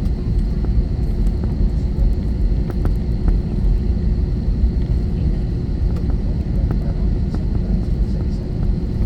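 Steady cabin rumble of an Airbus A321-231 with its IAE V2500 engines running, heard from inside the cabin: a constant low hum with faint scattered rattles and clicks.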